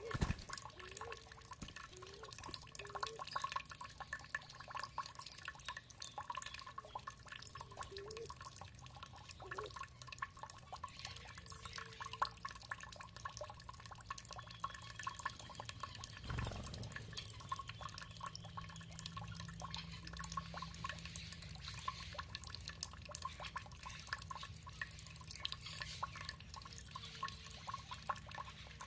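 Water trickling and dripping steadily, a dense patter of small drops with a few low gurgling plinks in the first half.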